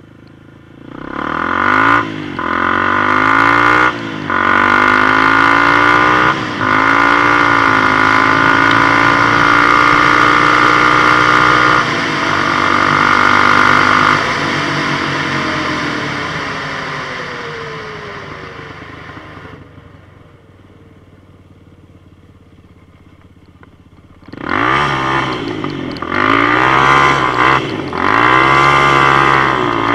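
Adly 300 XS quad with an aftermarket fake Akrapovic exhaust accelerating hard, the engine note climbing with short dips, held high, then dying away as it slows to a quieter idle; near the end it accelerates again with the same short dips.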